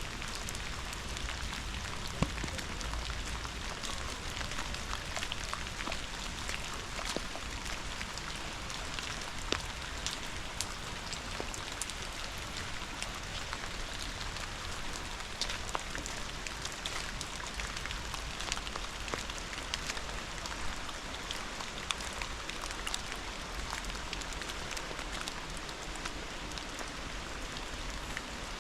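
Steady rain: an even watery hiss with frequent sharp single-drop ticks scattered through it.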